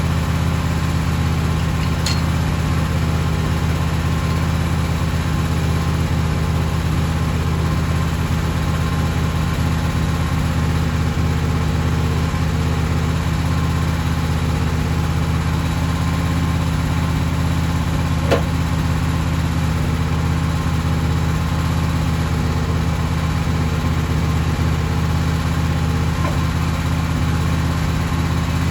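An engine running steadily at idle, a constant low drone that never rises or falls. One short sharp click about eighteen seconds in.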